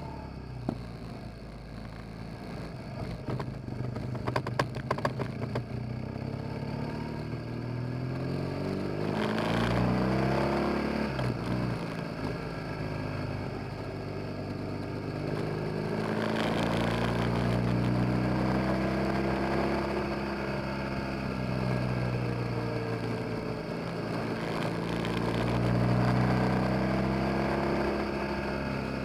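BMW R 1200 GS boxer-twin motorcycle engine and exhaust, heard from behind the rider, pulling along a road. Its pitch rises and falls repeatedly as the throttle opens and closes through the gears. A few sharp clatters come about four to five seconds in.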